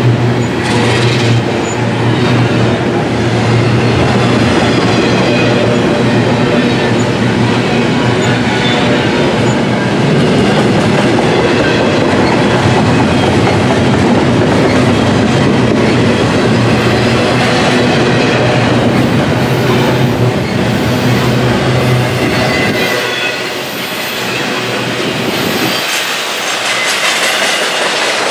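Double-stack container cars of a CSX intermodal freight train rolling past, a steady loud rumble and clatter of wheels on rail. The deep part of the rumble drops away about 23 seconds in.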